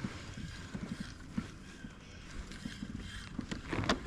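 Scattered light knocks and clicks of fishing tackle being handled in a kayak, with a few louder knocks near the end.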